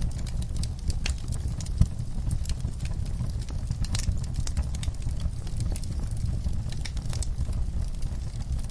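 Burning log fire crackling, with frequent sharp snaps and pops over a low, steady rumble, and one louder pop about two seconds in.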